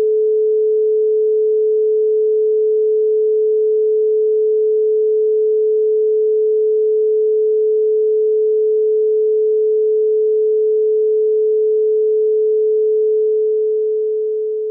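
A steady pure 432 Hz sine tone held at one pitch, starting to fade out near the end.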